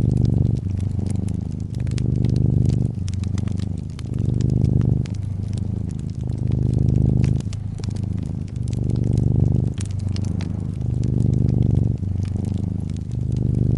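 Domestic cat purring close up, a low, steady purr that swells and eases in an even rhythm about every one and a half seconds. Scattered sharp crackles from a wood fire run over it.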